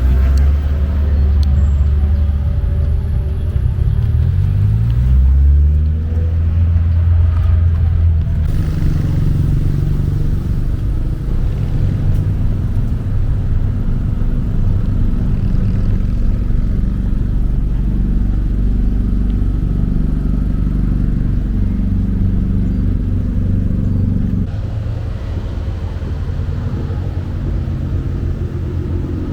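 Car engine running, its pitch rising in the first few seconds as it revs, then holding a steadier note that shifts up and down. It gets quieter about 24 seconds in.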